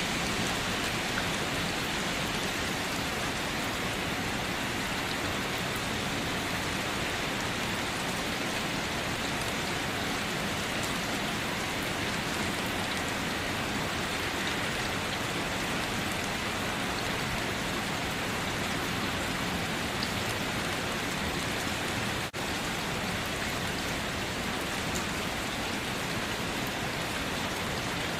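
Steady rain falling, an even hiss of many drops, broken by a split-second dropout about two-thirds of the way through.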